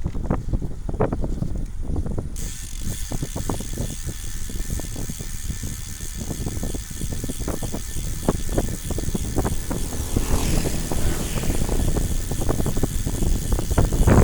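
Riding a bicycle downhill: wind rushing over the microphone and tyre-on-road rumble with small knocks. A steady high hiss joins about two seconds in.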